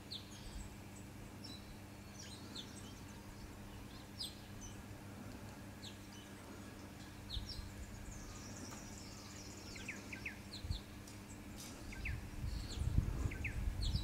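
Birds calling with scattered short, high chirps and whistles, some falling in pitch, over a faint steady hum. A low rumble rises near the end.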